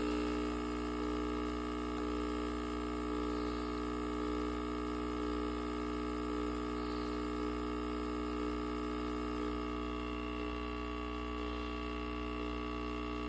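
Pump of a cutesun mini capsule espresso machine running steadily as it brews coffee, a constant buzzing hum.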